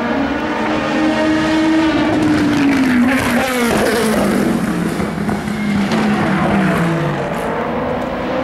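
Endurance race cars running at speed past the trackside, several engines overlapping, their notes sliding down in pitch as they pass, one falling steeply about three and a half seconds in.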